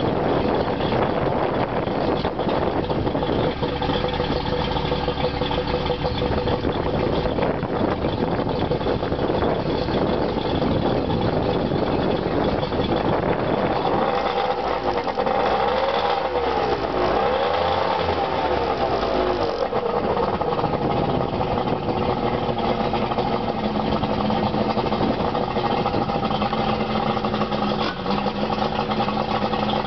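Mercury 135 two-stroke V6 outboard motor idling steadily. Around the middle its pitch rises and falls twice, as the throttle is briefly opened and closed.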